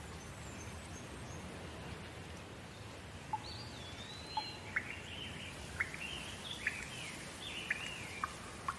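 Steady rain noise, with a bird singing from about three seconds in: warbling, gliding phrases mixed with short sharp notes.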